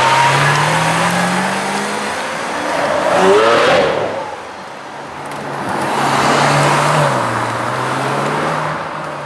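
Lamborghini Aventador's V12 engine revving in slow swells. The note climbs over the first couple of seconds and is loudest about three and a half seconds in, then drops away and swells again before settling back to a lower note.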